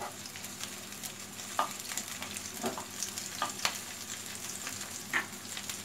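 Sliced onions and chopped garlic sizzling in hot oil in a nonstick frying pan, with the short scrapes and taps of a wooden spatula stirring them now and then.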